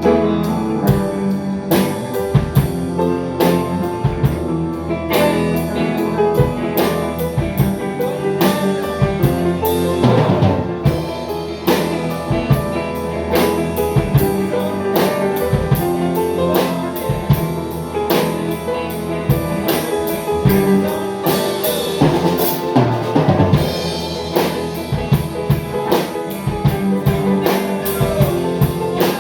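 A band playing a song: drum kit keeping a steady beat with snare hits, over guitar chords.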